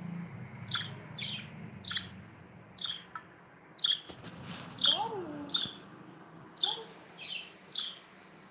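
Pet budgerigar chirping: short, sharp chirps about once a second, with a few lower rising-and-falling calls about five seconds in.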